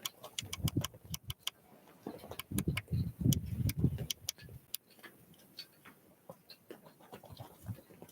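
Small wild birds pecking and hopping close to the microphone: a run of sharp taps and clicks mixed with soft low thumps, busiest in the first half and thinning out after about five seconds.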